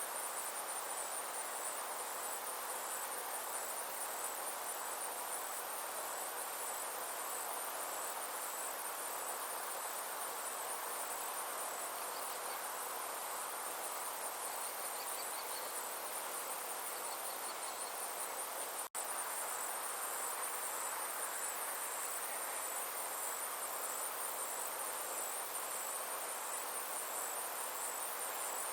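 Summer insects trilling steadily in a fast, high-pitched pulse over a soft even hiss. A few faint higher chirps come and go midway, and the sound cuts out for an instant about two thirds of the way through.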